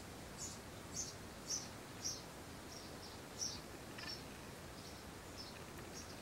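A small bird chirping over and over, short high chirps about twice a second, over a steady background hiss.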